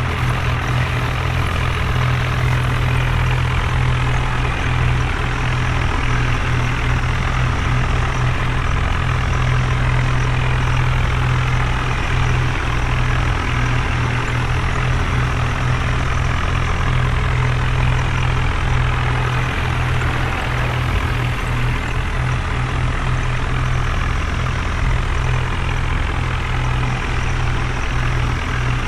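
Heavy diesel machinery engine running steadily at a constant speed, with a strong low hum.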